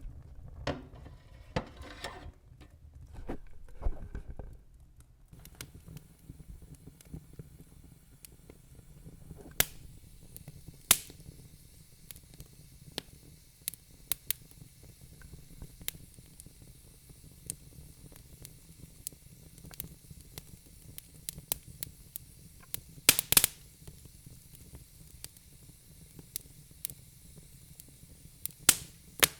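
Log fire crackling in a fireplace: scattered sharp snaps and a few louder pops over a low rumble and soft hiss.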